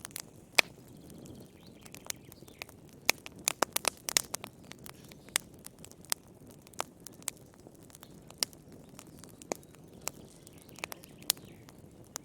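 Wood fire crackling in a fireplace: irregular sharp pops and snaps, a few louder than the rest, over a soft low rumble of burning.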